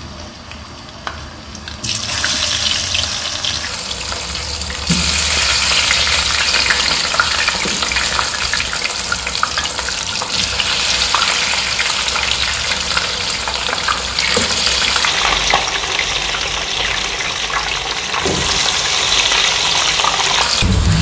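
Seasoned potato wedges sizzling and crackling in hot oil in a frying pan. The sizzle gets louder about two seconds in and again about five seconds in as more wedges go into the oil.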